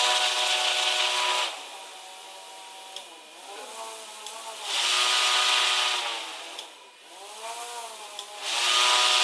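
Small electric motors and propellers of a 2-DOF model helicopter whirring, their pitch sweeping up and down twice as the controller changes motor speed. A loud rushing hiss of blown air comes and goes three times over them: a disturbance being applied to the rig.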